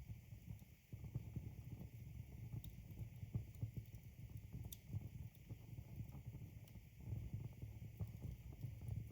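Logs burning in a fireplace: a low fluttering rumble of the flames with a few sharp crackles and pops from the wood.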